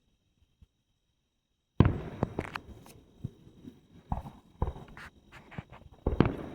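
Fireworks going off: a loud bang a little under two seconds in, then a run of sharp pops and further bangs over the next few seconds.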